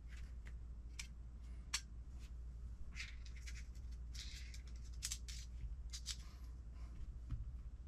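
Small transmission parts being handled and set down on a workbench: scattered light clicks, about a dozen, and a few short scraping sounds, over a steady low hum.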